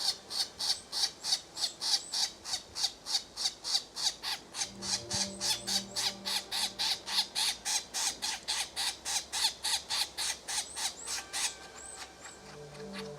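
Red-bellied woodpecker calling: a steady run of short, harsh notes at about four a second, with a brief pause near the end.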